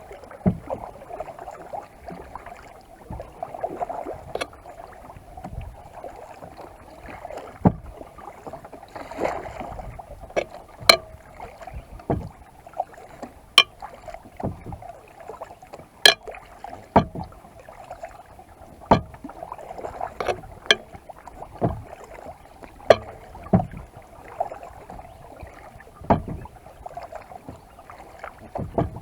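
Kayak paddling on calm water: a steady light wash of water, broken every one to three seconds by sharp knocks and clicks of the paddle strokes.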